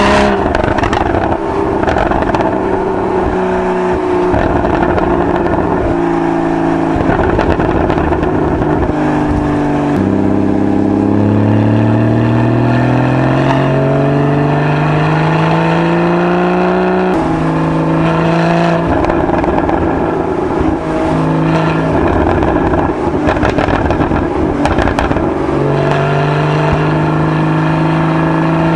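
Porsche 981 Boxster GTS's 3.8-litre flat-six, on its stock exhaust, pulling through the gears while driving. Its pitch climbs steadily and drops suddenly at gear changes, about a third, two thirds and near the end of the way through.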